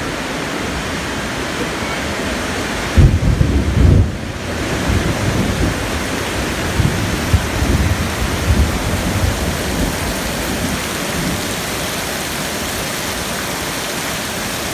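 Steady hiss of heavy rain and running floodwater. About three seconds in, a loud low rumble lasts about a second, and weaker low rumbles follow a few seconds later.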